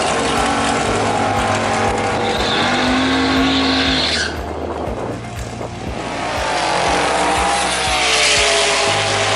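Drag-racing muscle car engines running hard at full throttle, the engine note rising and then cutting off suddenly about four seconds in. A second rise follows, then a falling sweep in pitch.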